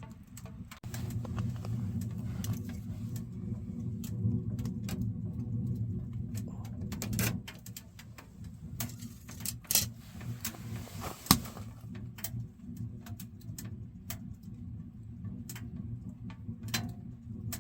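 Firewood crackling and popping in a wood-burning stove, scattered sharp clicks with one loud crack about eleven seconds in, over a steady low hum.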